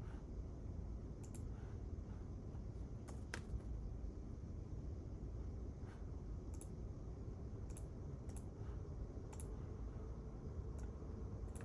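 Sparse, irregular clicks of computer keyboard keys being typed, about ten over the span, over a steady low room hum.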